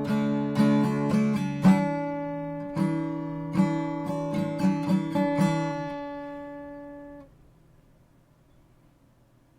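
Art & Lutherie Wild Cherry acoustic guitar played with picked chords and single notes, the last chord ringing and fading out. The sound cuts off about seven seconds in, leaving near silence.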